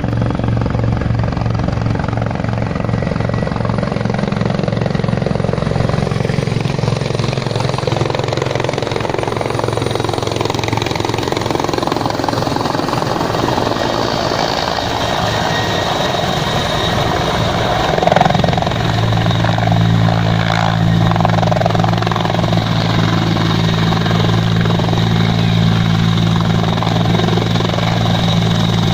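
Passenger helicopter's engine and rotor running steadily, with a low drone whose tone shifts about two-thirds of the way through.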